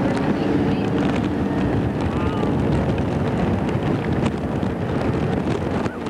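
Steady loud rush of wind and water aboard a motorboat under way, with wind buffeting the microphone. A brief faint voice cuts through about two seconds in.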